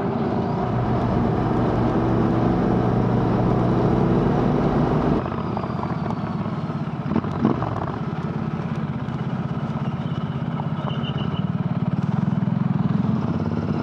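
Royal Enfield Interceptor 650's parallel-twin engine running through AEW aftermarket exhausts while riding. The engine note changes abruptly about five seconds in, and a few short high beeps sound near the end.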